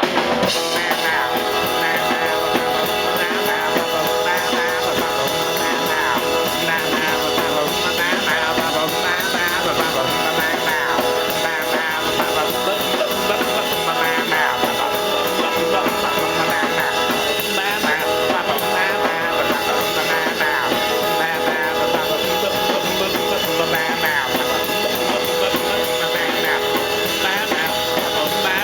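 Live rock band playing at full volume: electric guitar and drum kit in a dense, steady rock and roll groove.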